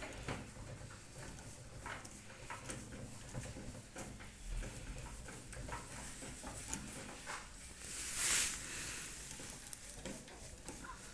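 Light scattered clicks, taps and rattles of hand work on a microwave oven's metal body as it is fitted and tightened, with a short hissing rush about eight seconds in.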